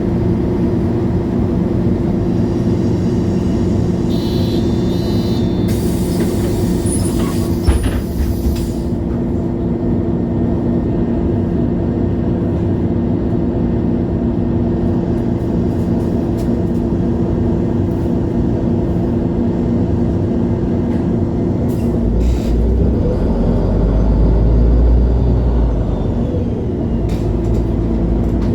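MAN Lion's City G articulated bus's diesel engine running steadily. A few seconds in, a loud hiss of compressed air is released for about five seconds, with a click near its end, and later the engine's low rumble grows louder for a few seconds before settling.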